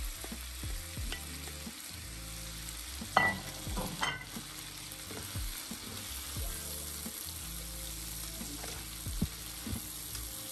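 Seafood and sausages frying in a spiced sauce in a non-stick pan, with a steady sizzle, while a wooden spoon stirs and knocks against the pan. The loudest knocks come about three to four seconds in.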